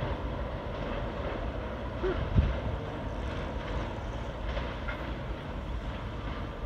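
Low steady rumble of the Amtrak Auto Train running away down the line after passing, its rear cars out of sight in the fog. A short low thump about two seconds in.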